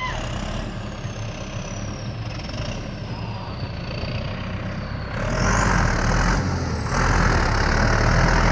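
Tractor engine running, growing louder about five seconds in and again near seven seconds, with a thin high whine that drifts down in pitch and then rises as the engine picks up.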